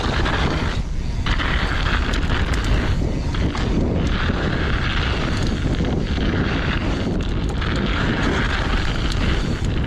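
Heavy wind buffeting the microphone of a camera on a mountain biker riding downhill, over the rushing noise of tyres on the dirt and snowy trail.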